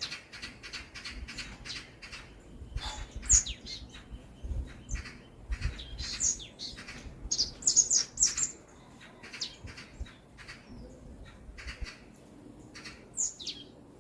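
Several small birds chirping and calling in quick, uneven runs of short high chirps, with a few fast downward-sliding whistled calls, the loudest about three seconds and eight seconds in.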